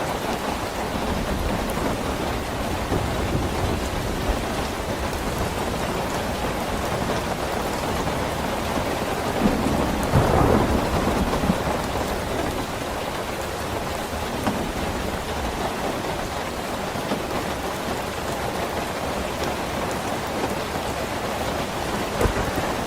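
Steady heavy rain falling, with low thunder rumbling beneath it; a louder roll of thunder swells about ten seconds in.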